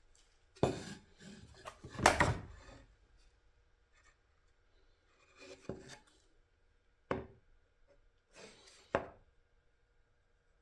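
Parts and tools being handled on a workbench: several short knocks and rubbing clatters, the loudest about two seconds in, over a faint steady hum.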